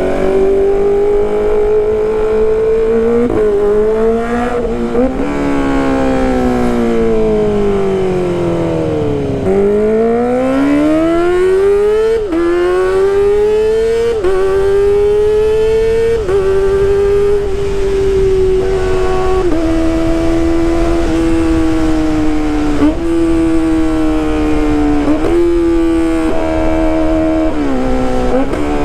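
Kawasaki ZX-25RR's 250 cc inline-four being ridden hard at high revs, a high-pitched wail through its exhaust. The note climbs and drops with each upshift, falls away for several seconds as the bike slows, then climbs again through the gears before settling to a steadier pitch.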